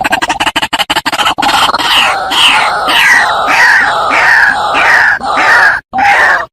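White-breasted waterhen calling: a fast run of rough clucking pulses, then loud, repeated falling notes about two or three a second, with a short break just before the end.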